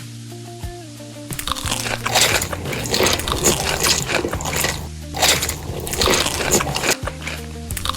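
Close-miked crunching and biting of crisp food, with background music. The crunching starts about a second and a half in, pauses briefly near the middle, then resumes.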